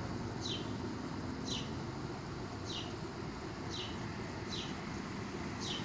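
A small bird calling: a short, high, falling chirp repeated about once a second, over a steady low background rumble.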